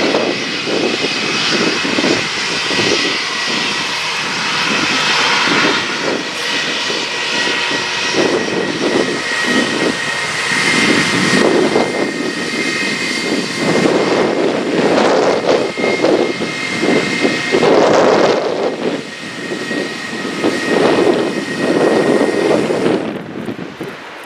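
Jet engines of a Boeing 787-9 airliner: a heavy, surging roar with a steady high whine over it, fading a little near the end.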